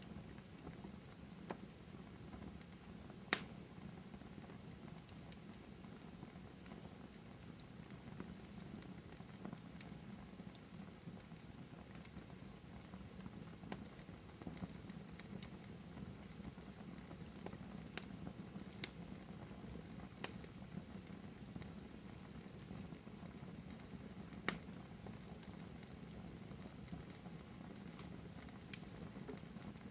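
Wood fire in a fireplace crackling, with scattered sharp pops every few seconds over a low steady rumble of burning. The loudest pops come about three seconds in and again near the end.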